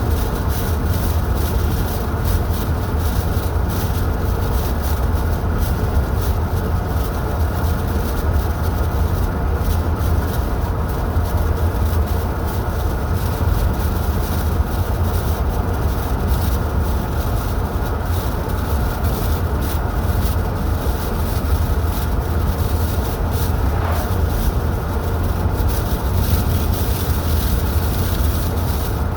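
A car driving along a highway: a steady deep rumble of engine and tyres on the road, with an even hiss above it.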